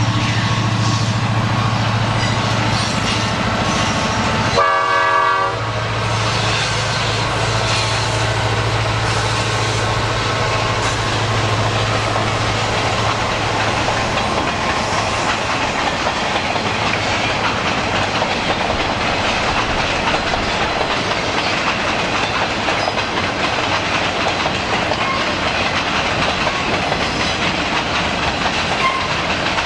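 Freight train crossing a steel railroad bridge overhead. A diesel locomotive's steady engine hum is followed by a short horn blast about five seconds in, then the continuous rumble and clickety-clack of freight cars rolling over the bridge.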